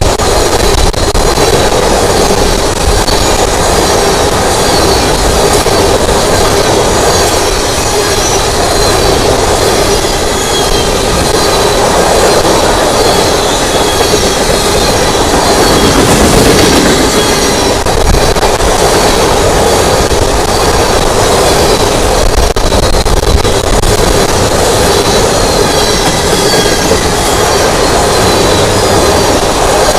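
Empty oil train rolling past: steady, loud wheel-on-rail noise from the freight cars, with faint high-pitched wheel squeal.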